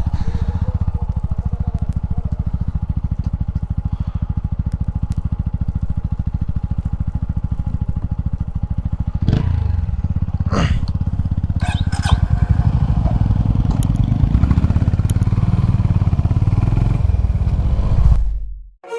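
Honda CB350 H'ness single-cylinder engine running under way, a rapid, even low thump. It gets louder about halfway through, then cuts off abruptly near the end.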